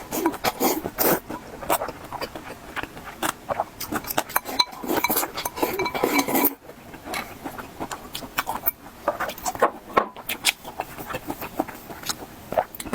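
Close-miked eating: rapid wet chewing and mouth smacking, mixed with utensils clinking and scraping against a dish.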